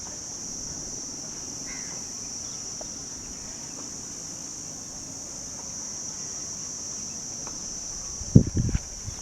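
Steady high-pitched insect chorus, a constant buzz that does not let up. Near the end a quick cluster of loud low thumps cuts in.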